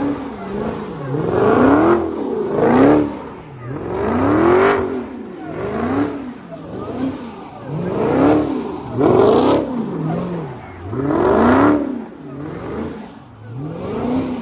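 Car engines being revved again and again, each rev climbing in pitch and falling back, about one every one and a half to two seconds.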